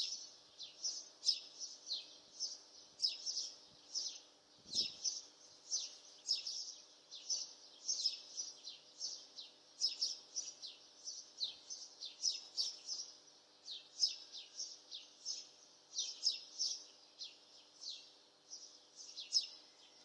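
Birds chirping over and over, about two to three short downward chirps a second, with a faint steady hum underneath.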